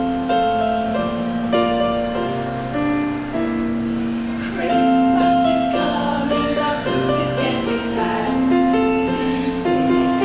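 Live ensemble music starting abruptly, with held chords in several parts and singing voices.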